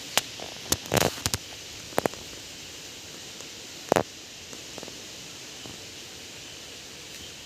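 A few short, sharp clicks and knocks, loosely spaced over the first couple of seconds with a louder one about four seconds in, over a steady faint hiss.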